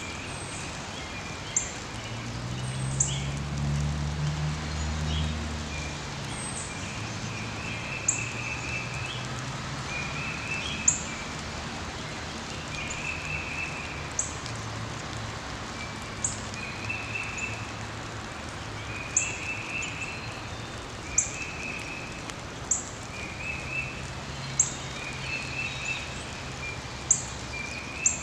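Woodland birdsong: one bird repeats a short, sharp, very high chirp every second or two, while another sings short trills at a similar pace, over a steady hiss. A low hum swells and fades in the first few seconds.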